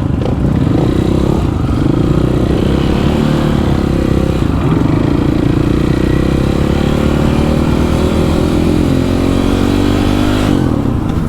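Single motorcycle engine running steadily at low revs under light throttle, its pitch slowly rising over several seconds and easing off near the end.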